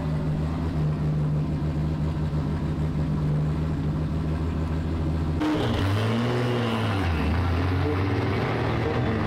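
Soarer drift car's 2JZ engine running at a steady pitch, then, after a sudden change about five seconds in, rising and falling in pitch as it is revved.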